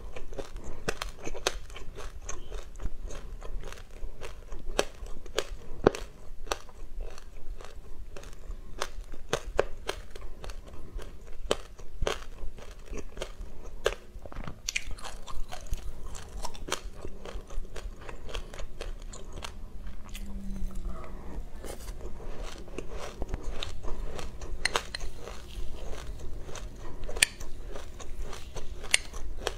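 Close-miked chewing of a mouthful of sesame seeds mixed with passion fruit pulp: a continuous run of many small, sharp crunches.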